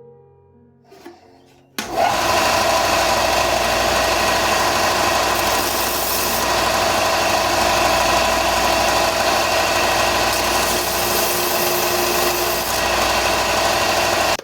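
Belt grinder running steadily with a whining motor and a grinding hiss, thinning a knife handle; it starts abruptly about two seconds in.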